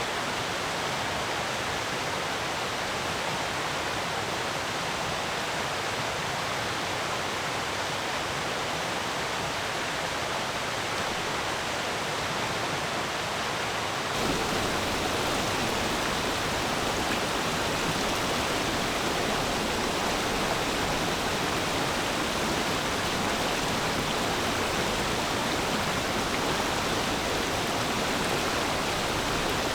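Shallow forest stream flowing, a steady rush of water. About halfway through the sound changes abruptly, becoming slightly louder with a deeper rumble.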